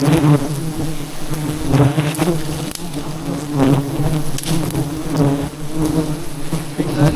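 A swarm of honeybees buzzing around a disturbed wild hive: a steady, loud drone with a low hum and its overtone, broken by a few brief rustles.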